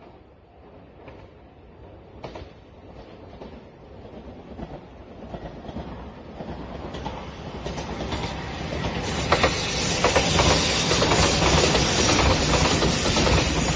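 JR Shikoku 8000 series electric limited express train approaching and passing close by, growing steadily louder, its wheels clicking over the rail joints, with a steady high hiss once it is near.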